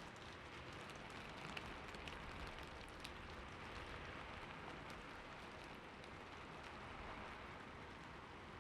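Steady, fairly soft rainfall, an even hiss of rain with scattered individual drops ticking, a few of them more distinct in the first few seconds.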